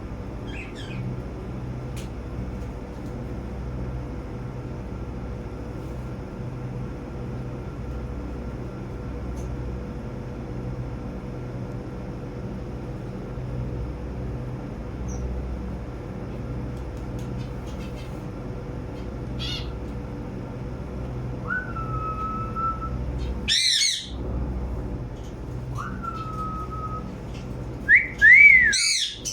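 A steady low hum runs throughout. In the last third, parrots call: two short held whistles and a few loud, sharp calls with rising and falling pitch, the loudest near the end.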